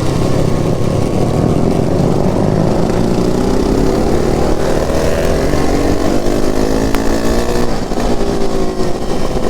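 Motorcycle engine revving, its pitch climbing slowly over several seconds and then holding.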